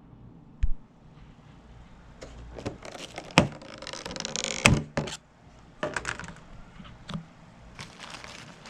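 Handling noises inside a car: a dull thump, sharp knocks and clicks, and paper rustling as the fast-food bags and drink just handed over are moved about. The loudest are two sharp knocks about three and a half and four and a half seconds in, with the rustling between them.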